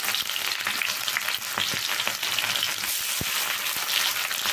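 Food frying in hot oil in a pan, sizzling steadily, with a few brief knocks, about one and a half and three seconds in.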